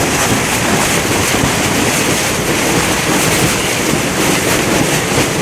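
Steady, loud storm noise: strong wind buffeting the microphone, with heavy rain and wind-driven waves on the river.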